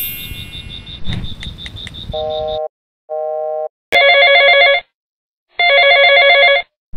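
Telephone ringtone sound effect: four rings, each well under a second to a second long with silent gaps. The last two are louder and fuller than the first two. Before them comes a rapid high-pitched electronic beeping over a low rumble for the first two and a half seconds.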